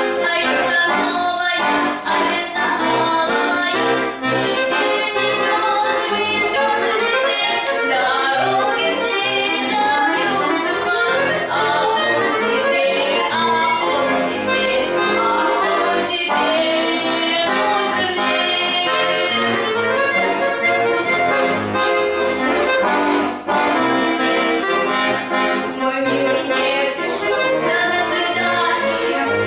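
Accordion playing a folk-style song tune without a break.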